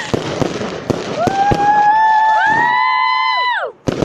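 Fireworks going off: a quick run of sharp cracks, then from about a second in several whistling fireworks sounding together in held, steady tones that glide down and cut off near the end, followed by a single sharp bang.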